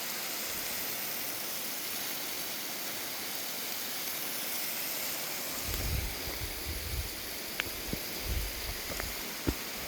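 Steady rush of flowing water from a creek or waterfall. Over the second half come low thumps and a few sharp clicks.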